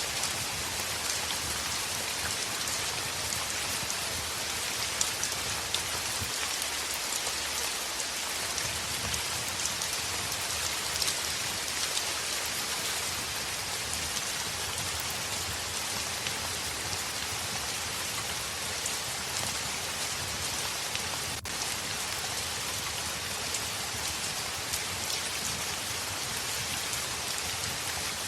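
Heavy rain falling steadily, a dense even hiss with scattered small ticks of drops, broken by a momentary dropout about two-thirds of the way through.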